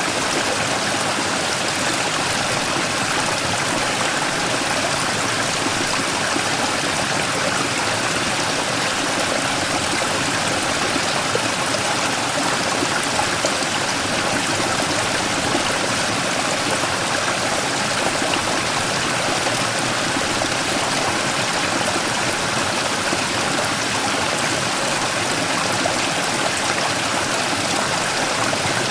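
Mountain stream running steadily over a large rock in a small cascade, an even rushing with trickling and gurgling water.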